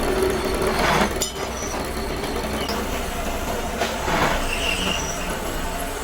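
Metalworking machinery running steadily with a low hum, with short high metal squeals and two swells of louder grinding-like noise, about a second in and about four seconds in.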